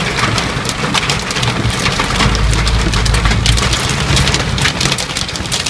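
Heavy rain pelting a car's windshield and roof, heard from inside the cabin as a dense, steady patter of drops. A deep low rumble comes in about two seconds in.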